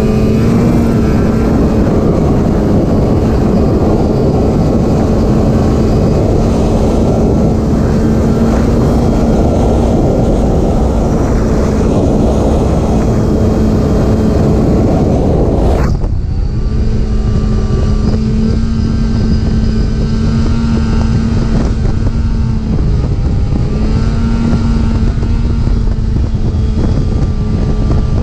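Snowmobile engine running at a steady speed while riding, with wind rushing over the microphone; the engine note holds steady, with a brief dip in pitch a little past the middle. About two-thirds of the way in the sound changes abruptly, as at a cut to another stretch of the ride.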